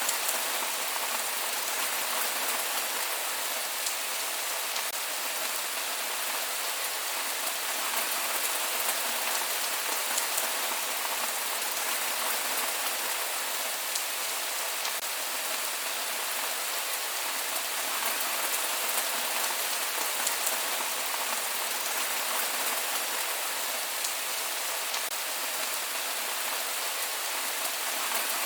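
Steady rain falling on a surface, an even hiss with fine scattered drop ticks and no thunder.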